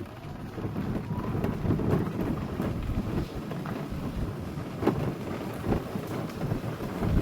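Car driving along a forest road: a rumbling, fluctuating road and wind noise, heaviest in the low end, that swells over about the first second and then holds.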